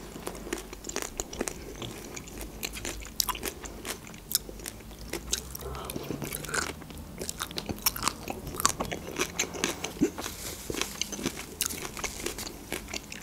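A person chewing and biting red onion strands close to a microphone: a continuous run of sharp crunching clicks.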